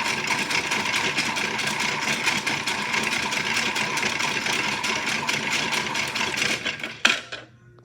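Toy washing machine's small motor running with a fast, steady rattle, cutting off with a sharp click near the end.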